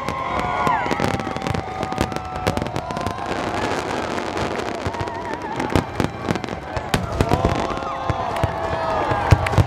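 Fireworks display: a dense run of bangs and crackling from bursting aerial shells, with no let-up.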